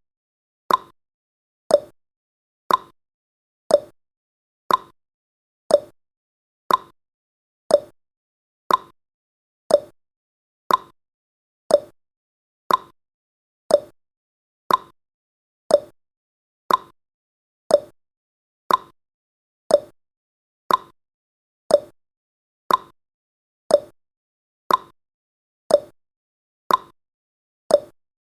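Clock-style ticking sound effect of a countdown timer: one sharp click every second, alternating between a higher tick and a lower tock.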